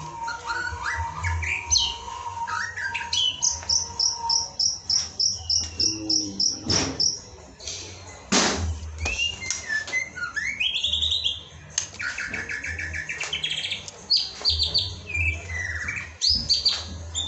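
White-rumped shama (murai batu) singing a long run of varied whistled phrases: rising and falling notes, with a fast trill of repeated high notes a few seconds in. A thin steady tone sounds beneath it during the first few seconds.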